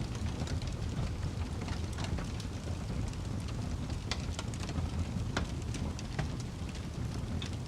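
Crackling fire: a low steady rumble with irregular sharp crackles and pops scattered through it.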